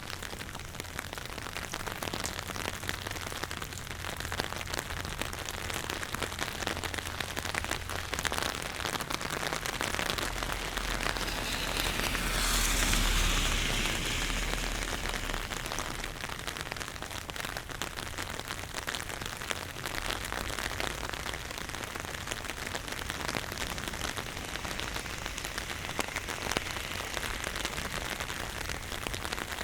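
Steady rain falling on surfaces, with many individual drops striking close by. About a third of the way in, a louder rushing swell with a low rumble rises and fades over a few seconds.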